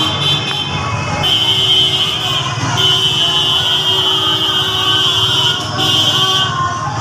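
A vehicle horn sounding in three long, steady blasts: the first starts just over a second in, the longest lasts nearly three seconds, and a short one comes near the end. Under it is a steady rumble of street traffic.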